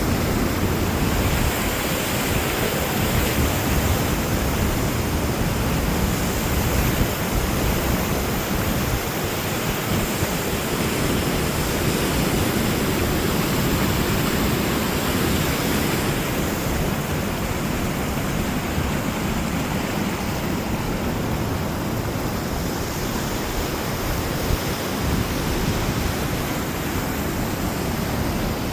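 Steady, even rush of a waterfall, with no breaks or distinct events.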